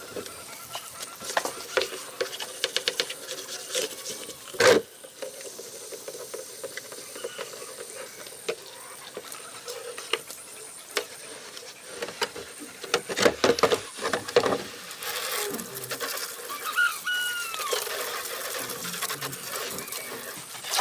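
Clicks, light rattling and knocks of hand work on small hard parts, with one loud knock about five seconds in and a cluster of clicks past the middle. A few short falling chirps sound near the end.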